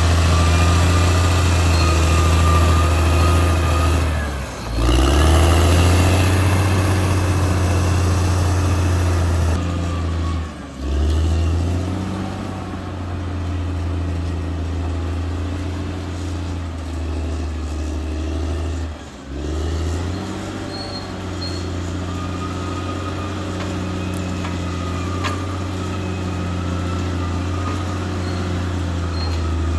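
Caterpillar D6R XL bulldozer's diesel engine running steadily at working speed, with faint high whines over the engine. The sound drops away briefly three times.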